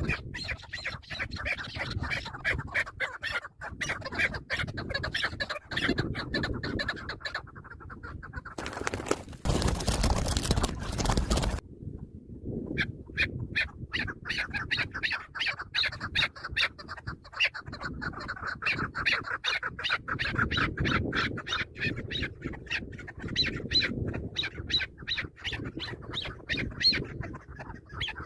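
Chukar partridges calling in fast runs of short repeated notes. A burst of rushing noise covers them for about three seconds around the middle.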